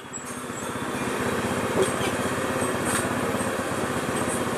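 Small motorcycle engine running steadily at low speed with a rapid, even firing pulse.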